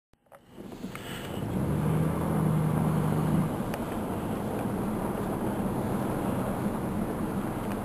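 A motor running steadily with a low hum over a noisy rush, fading in over the first second or so and loudest in the first half.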